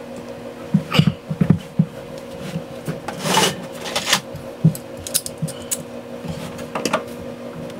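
Hands working on the drain pipes under a kitchen sink, with scattered knocks and clicks of pipe parts and one longer scrape about three seconds in. A steady low hum runs underneath.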